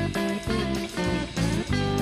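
Country rock music in an instrumental stretch between sung lines: guitar playing over a steady bass beat.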